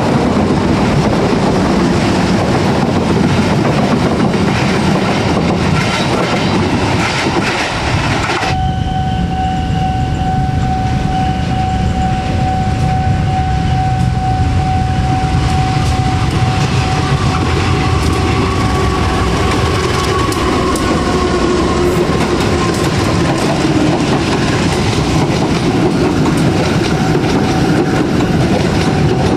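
Passenger train coaches rolling past on steel rails, with wheel clatter over the track joints. After a sudden change about 8.5 s in, a diesel-electric locomotive and its coaches run by, and a steady high tone sounds under the rumble.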